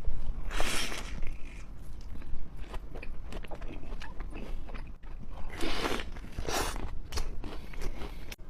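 Close-miked bites into pizza, the crust crunching, with chewing and small crackles between; the loudest crunches come about half a second, five and a half and six and a half seconds in.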